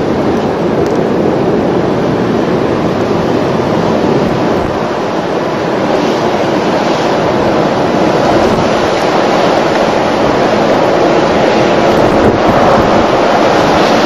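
Strong blizzard wind blowing steadily and buffeting the microphone, a loud, continuous rush of noise that grows a little louder near the end.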